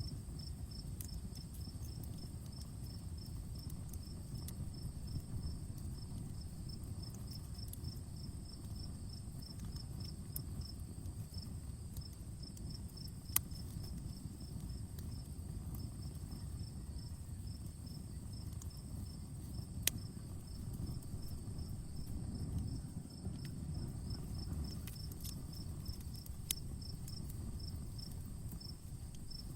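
Campfire crackling with sparse sharp pops, three louder ones standing out, over a low steady rumble. A cricket chirps evenly throughout, about three chirps a second, with a steady high insect tone behind it.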